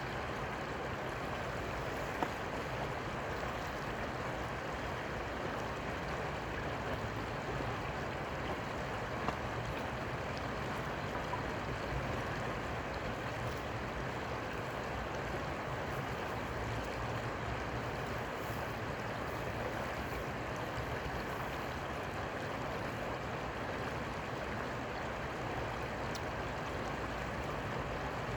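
Steady rushing of river water: an even noise that does not change.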